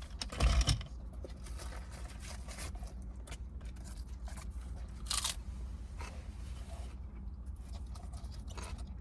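Crisp lettuce leaves being torn and crunched, in two short bursts, about half a second in and about five seconds in, over a steady low hum.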